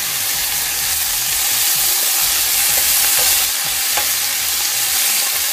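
Chopped cabbage sizzling steadily in hot oil with a little water added to steam it, and a few light knocks of a utensil as the greens are stirred in the pan.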